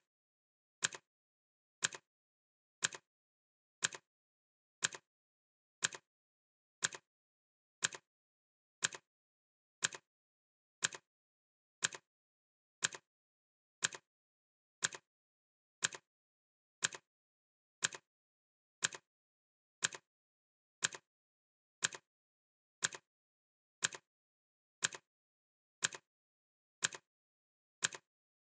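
Clock ticking sound effect: one crisp tick each second, steady and even, with silence between the ticks.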